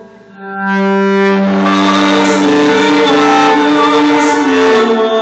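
Live instrumental passage of bowed strings playing long held notes that change every second or two. The sound dips briefly at the start, then swells back to full.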